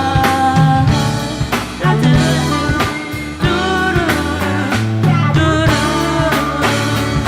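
Live band music, an instrumental passage. Drums keep a steady beat under a moving bass line, and a sustained melodic lead plays over the top.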